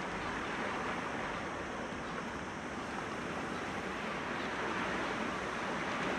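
Sea waves breaking against rocks, an even, steady wash of surf.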